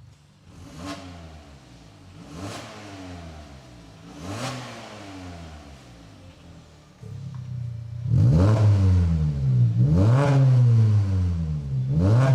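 Kia K5 2.0 gasoline four-cylinder revved through a dual variable-valve exhaust. Three quiet blips come first. About seven seconds in, the idle suddenly gets much louder, as when the exhaust valves open, and three much louder revs follow.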